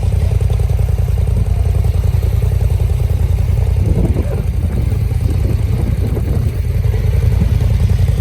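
Dirt bike engine running on the move under a heavy, steady low rumble. The engine note rises briefly about four seconds in.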